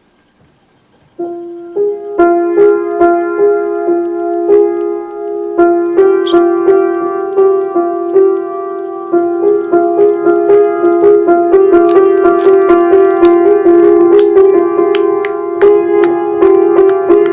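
Keys of a piano keyboard pressed by a budgerigar, starting about a second in: irregular, repeated notes, mostly two neighbouring notes alternating and overlapping.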